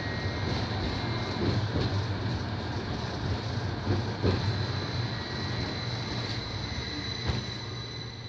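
Tram running, heard from inside the car: a steady rumble of wheels on rails with a thin, steady high whine and a few faint clicks, easing off slightly near the end.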